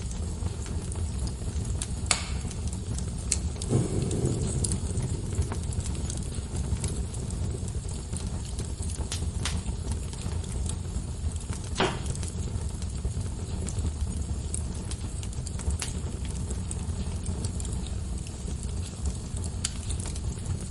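Wood fire crackling: scattered sharp pops and snaps over a steady low rumble and hiss, with a brief busier patch about four seconds in and the loudest pop around twelve seconds in.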